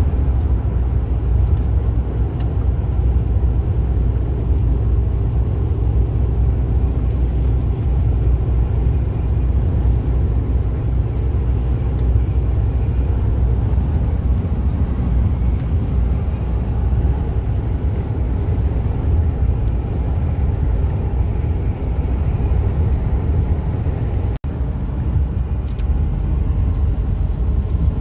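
Mercedes-Benz Actros truck cruising on the highway: a steady low engine and road rumble, broken by a split-second dropout near the end.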